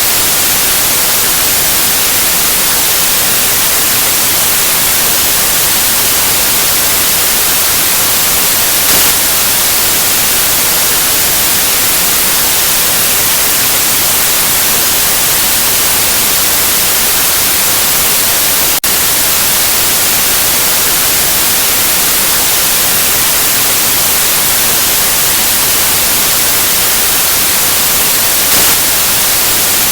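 Steady, loud white noise: an even hiss across all frequencies, briefly dipping once about two-thirds of the way through.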